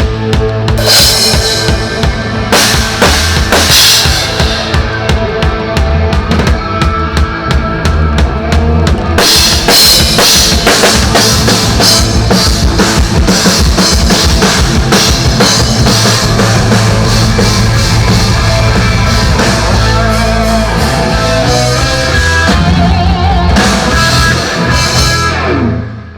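Rock band playing live during a sound check: the drum kit is loudest, with cymbal crashes and a busy beat over sustained amplified instruments. The playing breaks off near the end.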